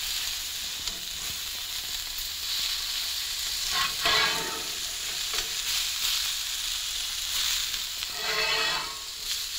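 Ground chicken patties frying in a cast iron skillet with a steady sizzle. A metal spatula scrapes under them and flips them, with louder swells of sizzle and scraping about four seconds in and again near the end.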